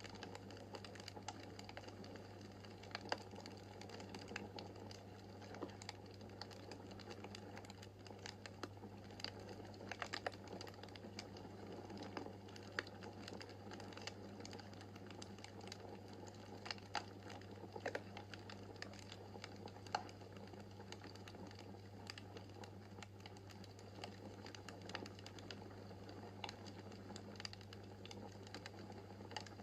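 Wood fire crackling in a fireplace: a soft steady hiss with small irregular snaps and pops, a few of them sharper, over a steady low hum.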